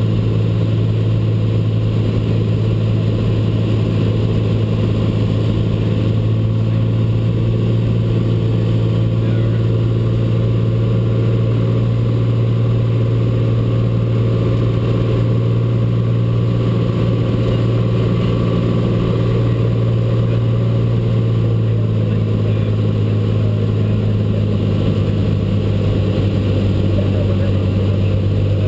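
Cessna 182 engine and propeller droning steadily in flight, with a strong low hum and a constant level.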